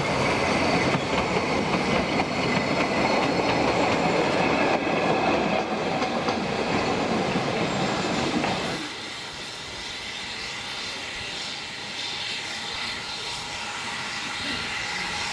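Ffestiniog Railway narrow-gauge train rolling past on its rails, loud and steady, then dropping off suddenly about two-thirds of the way through to a much fainter noise.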